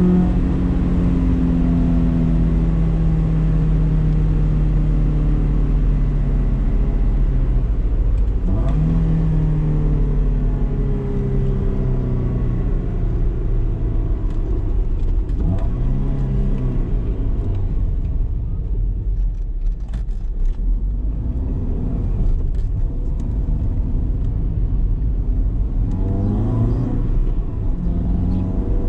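BMW E30 318is's four-cylinder engine on the move, revs sagging slowly, then changing sharply a couple of times as gears are shifted. The engine runs quieter at low revs for a while, then revs rise again as it accelerates near the end.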